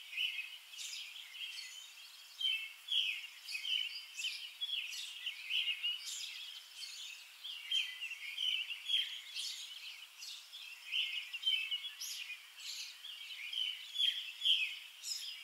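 Birds chirping and singing outdoors: a busy run of short, high calls, several a second, with no pause.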